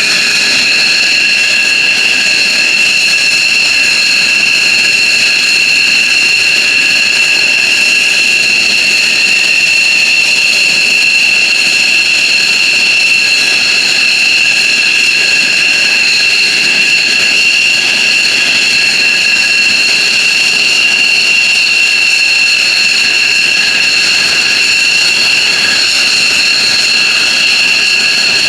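F-15J Eagle's Pratt & Whitney F100 turbofan engines running after start-up. The loud, high-pitched whine rises slightly at the very start, then holds at a steady idle over a continuous jet rush.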